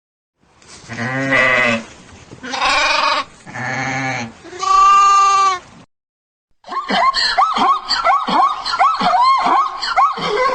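Four long, wavering bleats from a sheep or goat–type farm animal. After a short pause, a fast run of short, rising-and-falling calls from another animal, about three or four a second.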